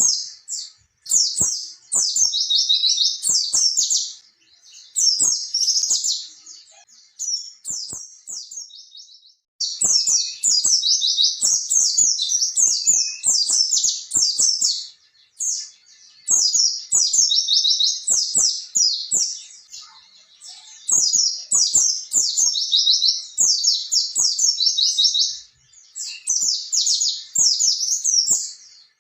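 White-eye (pleci) singing long, fast runs of high twittering notes in bouts of a few seconds, with short pauses between them.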